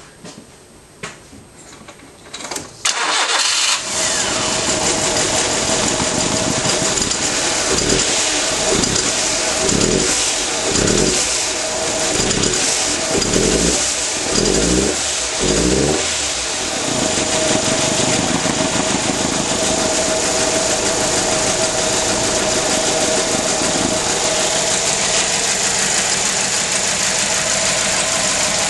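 1996 Nissan Almera 1.4 four-cylinder petrol engine starting about three seconds in and running with a bad misfire. Between about 8 and 16 seconds it swells and dips roughly once a second, then runs evenly.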